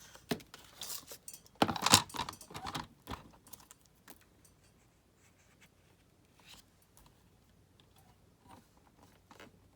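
Paper and small craft supplies being handled: a burst of rustling and crinkling about two seconds in, then scattered light clicks and taps.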